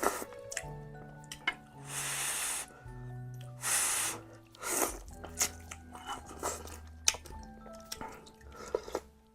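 Background music with a steady bass line, over which someone slurps rice noodle soup in three long slurps in the first half, with wet chewing and small clicks.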